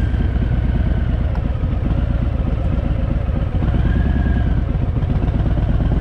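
Harley-Davidson V-twin motorcycle engine running at low speed and idling while the bike is brought into a parking spot, a steady fast low pulsing with a brief dip about three and a half seconds in.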